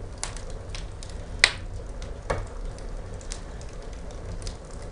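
Logs burning in an open wood fireplace with no glass door, crackling with irregular sharp pops, the loudest about one and a half seconds in, over a steady low rumble of the fire.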